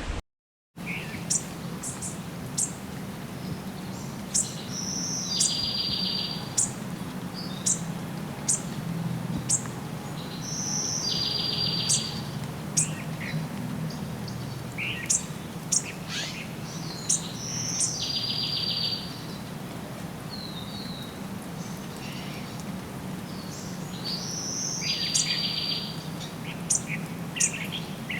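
Wild songbirds: many short, sharp high chirps, and one bird repeating a short trilled song phrase about every six to seven seconds, over a steady low hum.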